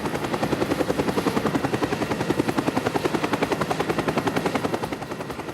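A rapid fluttering, rattling sound effect of about a dozen even beats a second. It holds steady, then fades out near the end.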